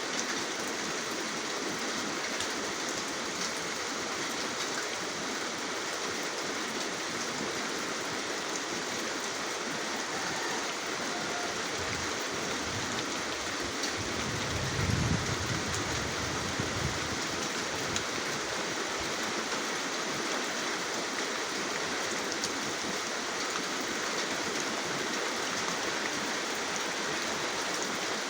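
Steady rain falling, an even hiss with fine scattered drop ticks. About halfway through, a low rumble swells for a few seconds and fades.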